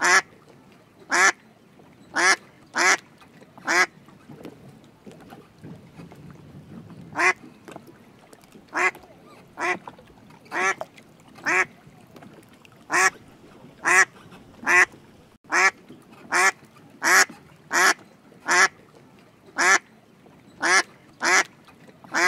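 Mallard ducks quacking: about twenty short single quacks, mostly around one a second, with a pause of a few seconds after the first few.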